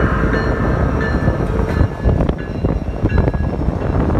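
BNSF freight train passing close by: a heavy, steady low rumble with short clattering knocks from the wheels as the diesel locomotives give way to enclosed autorack cars.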